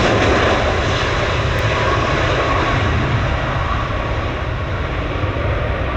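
Jet airliner's engines, loud and steady, slowly fading as the aircraft moves away.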